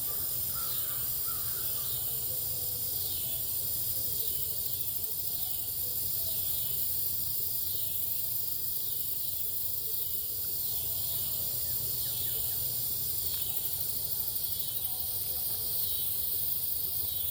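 Outdoor birdsong: a high, arching call repeated about every second and a half, with fainter lower bird notes, over a steady high insect buzz.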